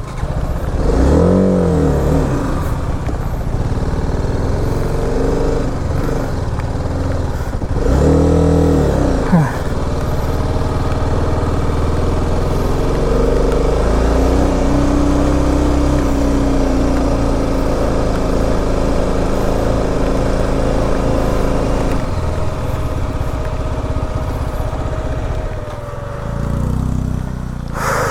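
BMW G 310 RR's single-cylinder engine pulling up a steep hill. It revs up and down twice in the first ten seconds, then holds fairly steady revs.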